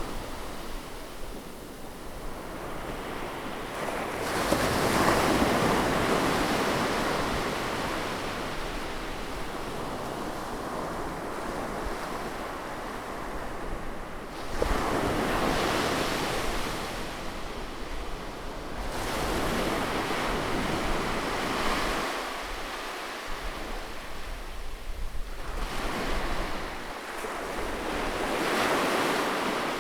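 Ocean waves breaking and washing up on a beach, coming in surges every few seconds, each building then slowly fading into a steady hiss of surf, with some wind.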